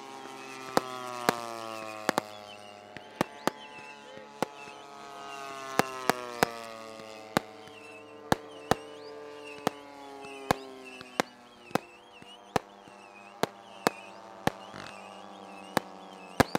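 Sharp firework pops at irregular intervals, one or two a second with a quick cluster near the end, over music with long, slowly falling notes.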